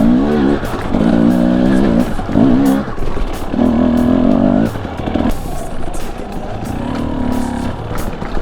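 Husqvarna TE 250i two-stroke dirt bike engine revving in repeated short bursts, its pitch climbing and dropping several times as the throttle is worked over rocky trail, with scattered knocks.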